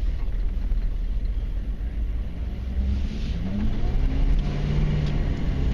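The 1994 Chevy Silverado K1500's 6.5-litre turbo diesel V8 runs with a low rumble, then revs up about three seconds in, its pitch climbing and then holding.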